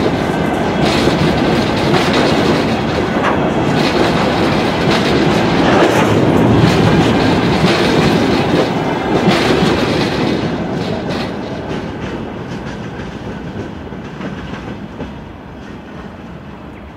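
Wheels of a passing freight train's open-top wagons rolling on the rails, with repeated clicks and knocks over the rail joints. The sound fades steadily from about ten seconds in as the last wagon goes by and the train moves away.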